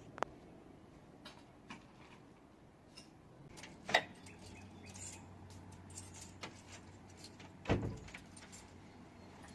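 Scattered light clicks and knocks, the sharpest about four seconds in and a duller, heavier knock near the end.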